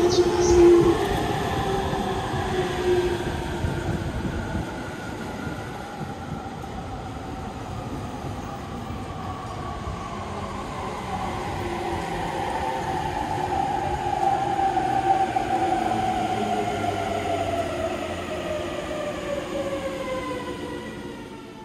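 JR East commuter electric train braking into a platform: a whine of several tones falls slowly in pitch over about twenty seconds above wheel-and-rail rumble, with a short high squeal just after the start. It fades out near the end as the train comes to a stop.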